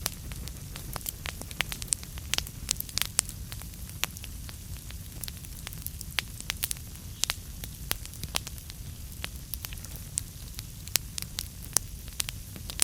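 Wood fire burning in a fireplace, the logs crackling with frequent, irregular sharp pops over a steady low rumble.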